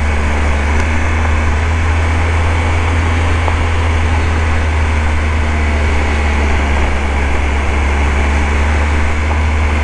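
Motorcycle engine running steadily under way, with a deep, even hum and wind noise on the microphone.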